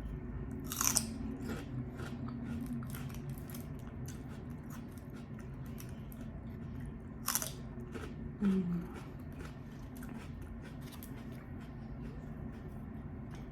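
Close-miked biting and chewing of crispy fried chicken wings: many small crackling crunches, with two louder bites about a second in and about seven seconds in, and a short low hum from the eater soon after the second.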